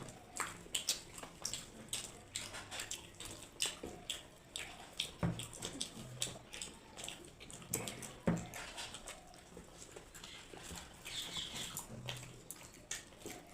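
Close-up eating sounds of people chewing deep-fried pea-stuffed kachuri with potato curry: irregular wet smacks and clicks of the mouth, many a second.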